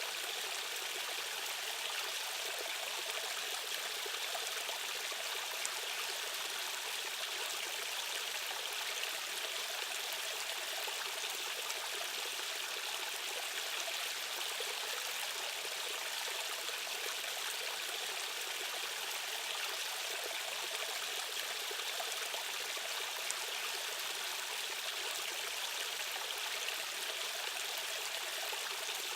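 Fast-flowing stream water rushing and splashing over rocks, an even, unbroken hiss with little deep rumble.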